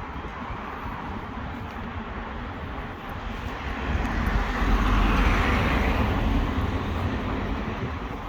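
Street traffic noise, with a vehicle passing by: its rumble and rush swell from about four seconds in, are loudest around five seconds, then fade away.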